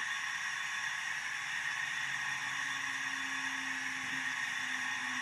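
Steady hiss from a DCC sound-fitted model steam tank engine's small speaker, with a faint low hum joining about halfway through; the selected uncoupling sound does not play.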